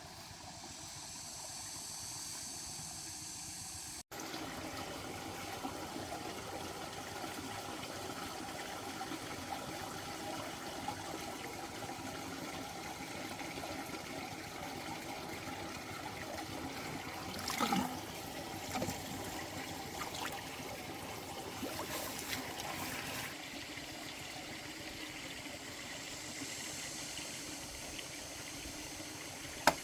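Water trickling steadily, with a few short knocks about two-thirds of the way through.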